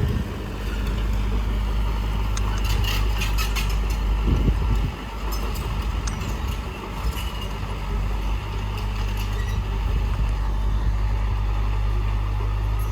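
Diesel engine of heavy earthmoving equipment (bulldozer or dump truck) running steadily with a low, constant hum, with a short patch of clicks and clanks about three to four seconds in.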